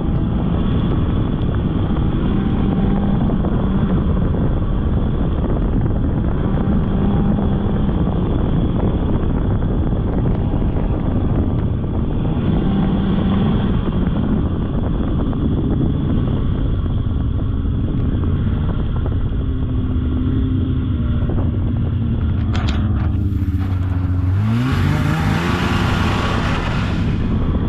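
Polaris snowmobile engine running under way, its note rising and falling with the throttle. About 24 seconds in, the revs climb steeply, with a loud hiss over the top for about three seconds.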